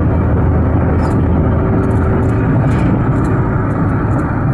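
Steady road and engine noise of a vehicle on the move.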